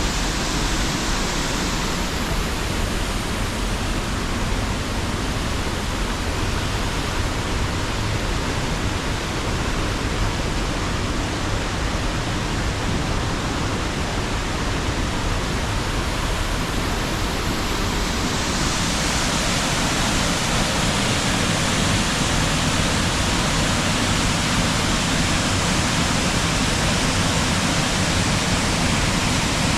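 Waterfall on a river, water rushing steadily as an even, dense noise. It turns slightly brighter and hissier about two-thirds of the way through.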